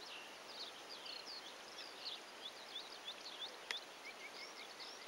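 Small birds twittering: a quick run of short, high chirps, faint over a steady outdoor hiss, with a single sharp click about three and a half seconds in.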